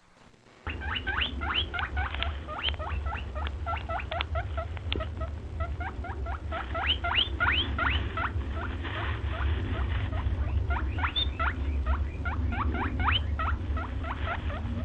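Small animals squeaking rapidly: a dense run of short, rising, high-pitched chirps over a steady low rumble, starting abruptly under a second in.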